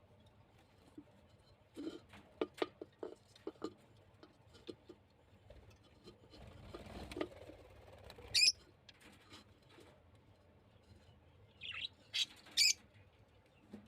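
Small caged birds chirping a few short, high calls, with scattered light tapping and scratching clicks from the birds moving about in the cage. The chirps come once about two-thirds of the way through and then as a quick run of three near the end.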